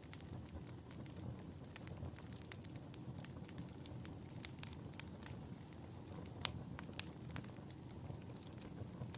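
Wood fire burning in a fireplace: a steady low rumble of flames with irregular crackles and pops, the loudest a sharp pop about six and a half seconds in.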